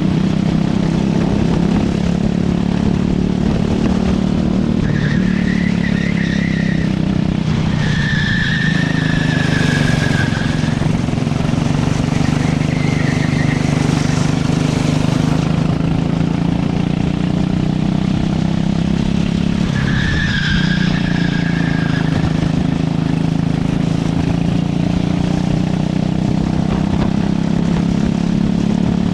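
Racing kart's engine running steadily under load, with the tyres squealing four times in short spells of one to two seconds as it corners.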